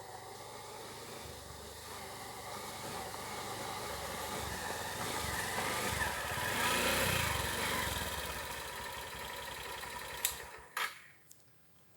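A motor vehicle engine passing: it grows louder to a peak about seven seconds in, then fades away and cuts off with a couple of clicks.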